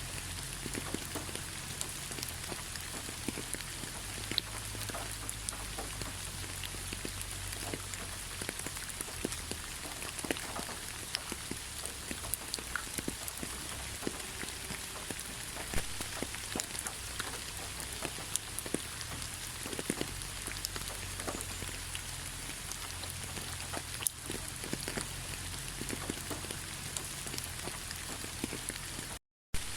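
Steady rain, with many individual drops tapping distinctly through the even hiss. The sound cuts out to silence for a moment near the end, then resumes.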